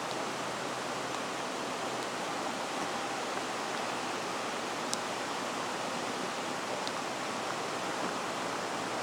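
Steady rushing of floodwater from Bear Creek running over its banks, an even hiss with no break. One short click about five seconds in.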